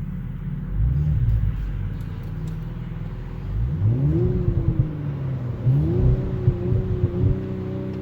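Audi S5 Sportback's turbocharged V6 engine being revved, with a brief blip about a second in, then two longer revs: the first rises and falls, the second is held a moment before dropping back toward idle, with a few sharp exhaust pops along the way.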